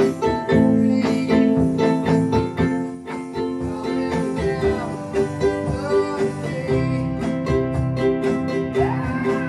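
Ukulele strummed in a steady rhythm, playing the chords of a song.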